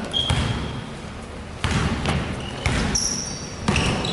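A basketball bouncing on a hardwood gym floor, about once a second, each bounce echoing in the hall, with short high squeaks of sneakers on the court.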